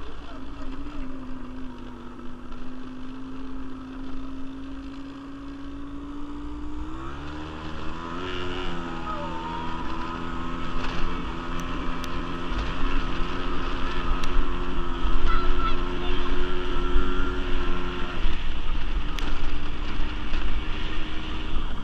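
Quad bike engine running. About seven seconds in its pitch rises as it revs up, it holds the higher revs for about ten seconds, then it drops back near the end.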